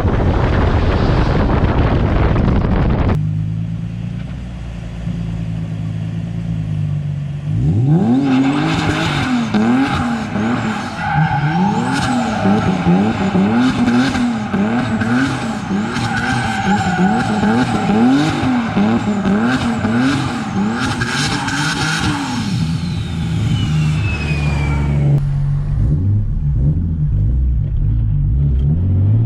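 Turbocharged Nissan 370Z's 3.7-litre V6 heard from inside the car. It settles to a low steady note, then about 8 seconds in revs up sharply and holds a fast rising-and-falling engine note with tyre squeal for some fourteen seconds, as in a drift with the throttle worked. It then drops back to a low steady note and begins to rise again at the very end.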